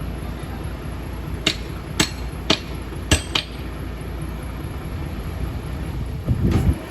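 Heavy diesel machinery running steadily with a low rumble. Five sharp metallic clanks come between about one and a half and three and a half seconds in, and a heavier thump follows near the end.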